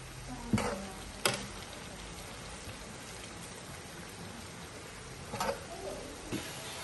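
Beef with lemongrass and chillies sizzling steadily in a pan as it is stir-fried, with a slotted metal spatula knocking sharply against the pan twice in the first second and a half and twice more near the end.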